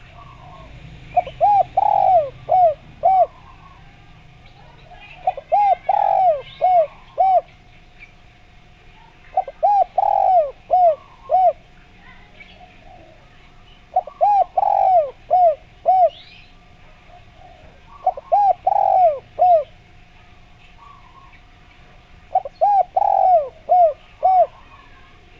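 Spotted dove (derkuku) cooing in repeated phrases: six bursts of four or five quick arched coos, one about every four seconds. Faint chirps of small birds and a faint steady tone sit behind it.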